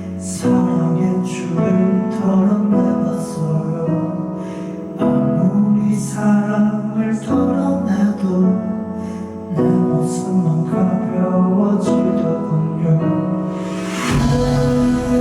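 Live band playing a slow, tender song, with sustained chords changing every few seconds and a light accent every second or two.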